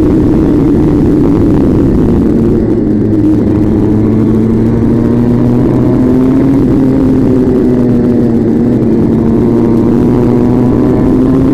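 A motor vehicle's engine running steadily and loudly at speed, its pitch falling a little early on and then gently rising and dipping, over a constant rushing noise.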